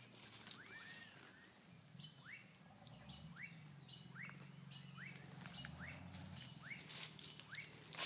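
Bird calling over and over, each call a short note sliding down in pitch, with a high thin insect buzz coming and going and a faint low hum beneath.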